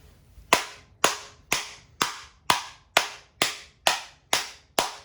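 A Shark vacuum's post-motor filter being tapped out against a hard surface, ten sharp knocks about two a second, each with a brief ring, knocking loose the dust clogged in it.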